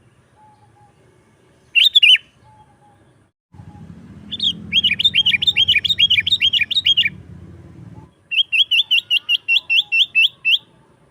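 Sooty-headed bulbul (kutilang) singing energetically: one short call, then two fast runs of repeated sharp notes at about four or five a second.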